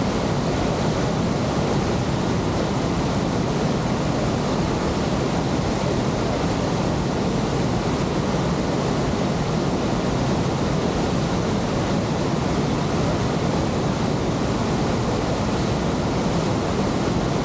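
Steady rushing of Victoria Falls, the Zambezi's water pouring over the gorge wall, an even unbroken noise.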